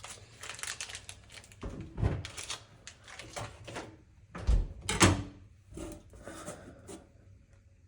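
Kitchen handling noises: a run of light knocks and clatters with a few heavier thuds, the loudest about four and a half to five seconds in.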